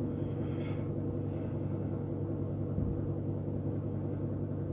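Paintbrush dabbing thick paint onto a cork block, a faint scratchy brushing about a second in, over a steady low hum.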